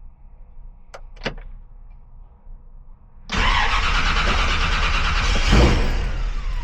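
Two short clicks, then about three seconds in the 1956 Chevrolet Bel Air's engine suddenly cranks and fires up, running loudly with a surge near the end. It starts and runs off a very weak battery.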